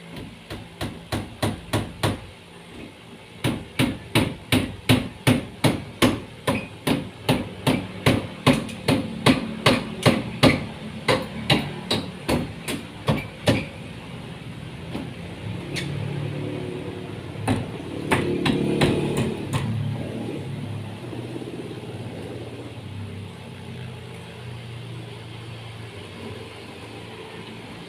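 A hammer striking repeatedly in carpentry work, about two to three blows a second for some thirteen seconds, with a short pause near the start. A few single blows follow, then a steady low rumble that slowly fades.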